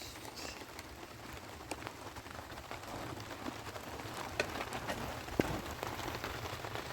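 Steady patter of rain, with a few sharp clicks, the two loudest about four and a half and five and a half seconds in.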